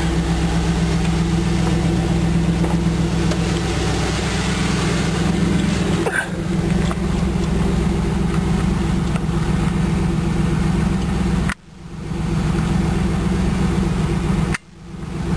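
1998 Pontiac Trans Am's LS1 5.7-litre V8 idling steadily, with the fuel-pump buzz gone after a clogged fuel filter was replaced. The sound cuts out abruptly twice near the end and comes back within about a second each time.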